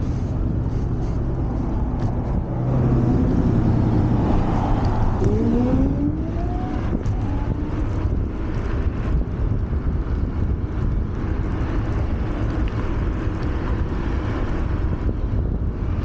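Riding noise from an electric scooter at speed: wind rushing over the camera microphone and tyre rumble on the road, louder for a few seconds about three seconds in, with a short rising whine a little after five seconds.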